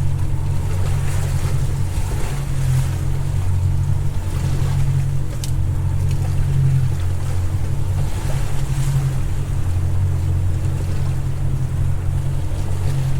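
Boat motor running steadily, with wind and sloshing water over it. There is one sharp click about five and a half seconds in.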